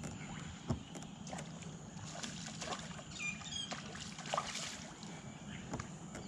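Water lapping and sloshing against a kayak hull, with scattered small knocks and clicks, and a short run of high chirps falling in pitch about three seconds in.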